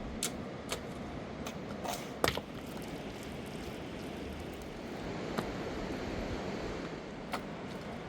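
Steady rushing of a river, with a few sharp clicks or knocks scattered through it, the loudest a little over two seconds in.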